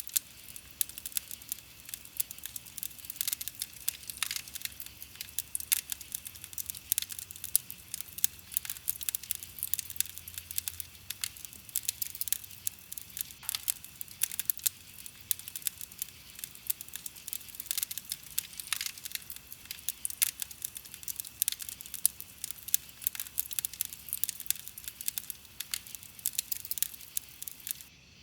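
Wood campfire crackling: a dense, steady run of small sharp snaps, with an occasional deeper pop from the burning wood.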